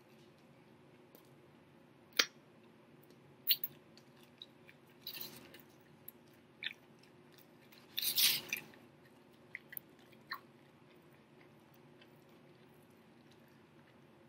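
A man chewing and biting into a fried chicken sandwich close to the microphone: scattered short wet mouth clicks and smacks, the loudest cluster about eight seconds in, over a faint steady hum.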